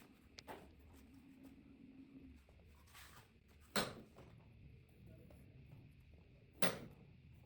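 Faint workshop room tone broken by a light tap near the start, then two sharp knocks about three seconds apart.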